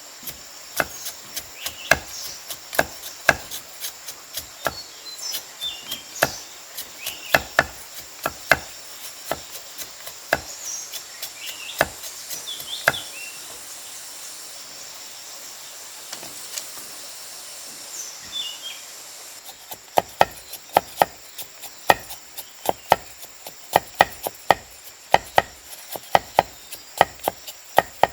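Repeated chopping strokes of a blade on wood, uneven for the first stretch, then quicker at about two to three a second from around two-thirds of the way in. A steady high insect drone and a few short bird chirps sit under it.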